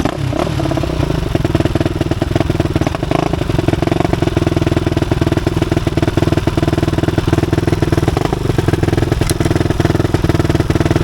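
Dirt bike engine running at a steady, even idle just after being kick-started, a loud rapid putter of firing pulses holding one pitch.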